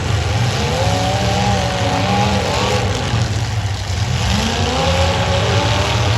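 Demolition derby car engines running hard and revving, their pitch rising and falling over a steady low drone.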